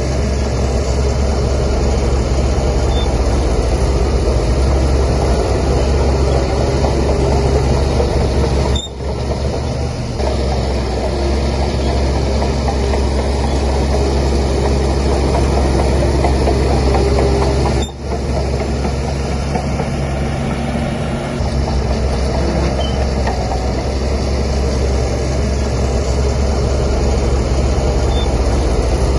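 Heavy diesel engine of earthmoving machinery running steadily under load, with a strong low hum; the sound drops out briefly twice, about a third and two thirds of the way through.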